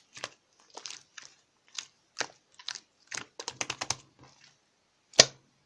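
Eraser slime being squeezed and pressed by hand, giving a string of crisp clicks and crackles, with a quick run of them about three and a half seconds in and one loud pop near the end.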